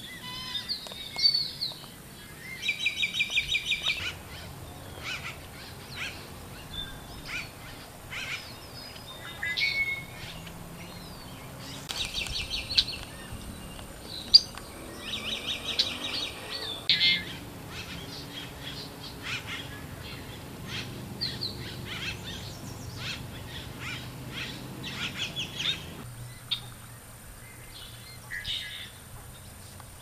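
Wild songbirds calling around a lake: several rapid trills, each a second or two long, with many short chirps and whistles between them.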